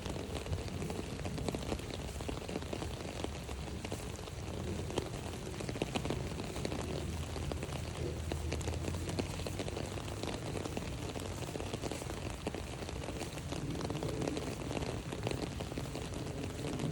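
Rain pattering steadily on an umbrella overhead, a dense even drumming of drops.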